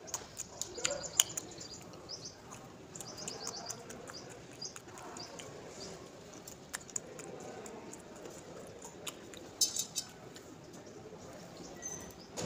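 Chewing and wet mouth clicks from eating boiled chicken, with small birds chirping in the background and a few sharper clicks.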